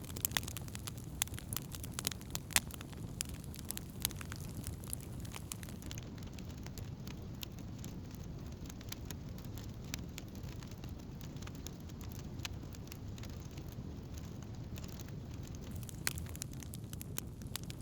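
Wood campfire burning, with frequent sharp crackles and pops over a steady low rush of flame; the pops come thickest in the first few seconds and again near the end.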